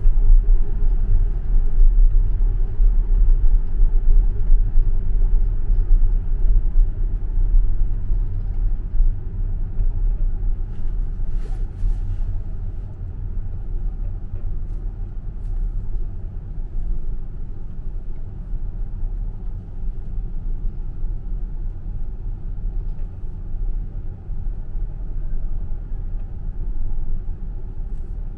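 Tesla electric car's tyre and road rumble riding through the Loop tunnel, a steady low noise with no engine note, growing gradually quieter through the second half.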